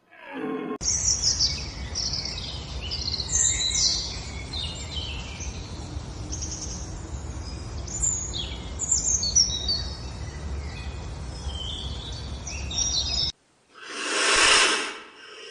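Many birds chirping and calling in quick overlapping phrases over a steady low rumble of background noise. After a sudden cut to silence near the end, a short loud burst of noise.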